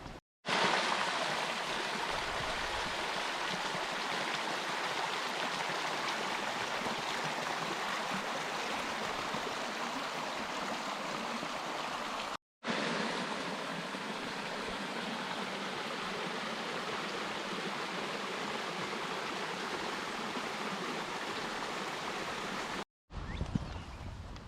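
Steady rush of running stream water, in two stretches broken by brief edit cuts to silence, about halfway through and near the end.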